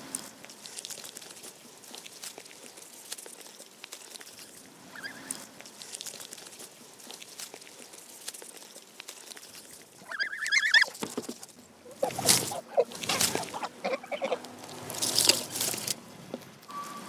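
Geese calling and honking, a run of loud honks starting about ten seconds in, after a stretch of faint hiss with scattered ticks.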